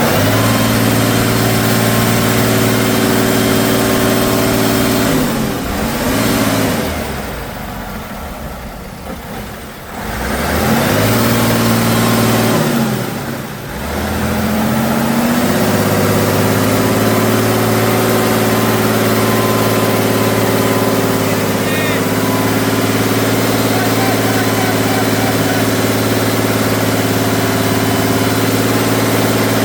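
Off-road truck engine held at high revs under heavy load. The revs sag and climb back twice, about a third and halfway in.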